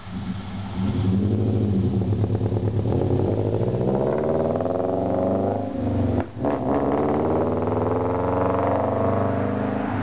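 2008 Subaru Legacy 2.5i's flat-four exhaust, loud through an unequal-length header, single cat, resonator and straight pipe. The engine picks up and climbs in pitch, drops out briefly about six seconds in, then runs on steadily.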